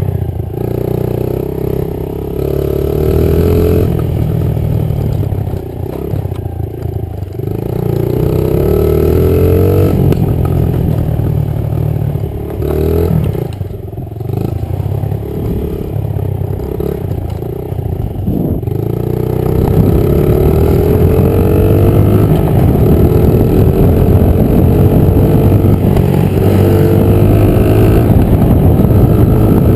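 Honda 50 dirt bike's small single-cylinder four-stroke engine being ridden, revving up with rising pitch and easing off again and again; for the last third it runs louder and more steadily under throttle.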